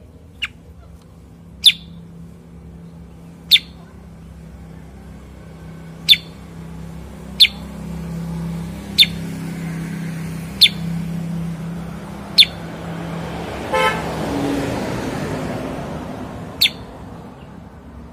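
A cucak kurincang giving single short, sharp call notes, about ten of them spaced one and a half to two seconds apart. Behind them a low engine drone builds and a motor vehicle passes a little past the middle.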